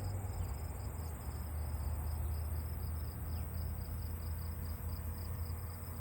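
Field insects chirping in a steady, evenly pulsing high-pitched rhythm, with a low steady rumble underneath.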